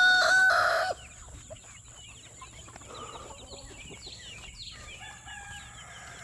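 A rooster crows, its long held note ending about a second in, followed by soft chirps and clucks from the chickens; a second, fainter crow starts near the end.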